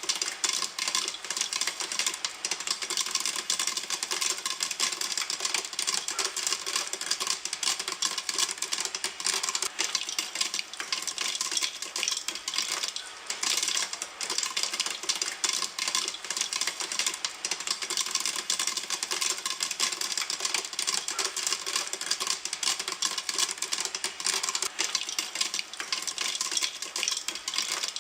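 Popcorn popping in a pan: a dense, unbroken stream of rapid small pops, many each second.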